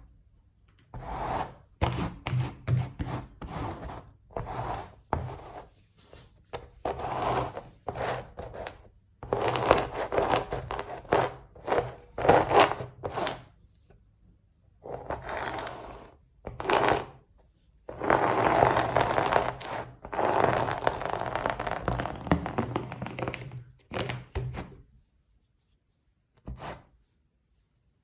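Scraping and rubbing strokes of a hand tool worked across a painting substrate, coming in irregular bursts from brief scrapes to strokes of a few seconds, with short pauses between. Near the end it goes almost quiet apart from one short stroke.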